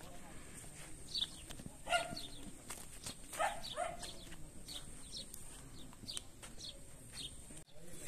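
Farm ambience: a small bird repeats a short, high, falling chirp roughly twice a second. Brief indistinct voices come in about two and three and a half seconds in, over a faint steady high tone.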